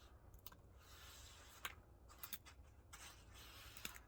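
Faint scraping with a few sharp clicks spread through, over quiet background hiss.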